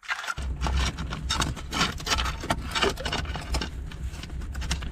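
Irregular clicks and scrapes of hard objects knocking and rubbing together, with a crab being worked out of a crevice on the shore. A steady low rumble runs underneath.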